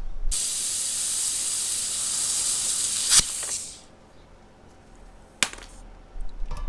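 Compressed air hissing steadily for about three and a half seconds, then cutting off just after a sharp click. A second single click follows a couple of seconds later.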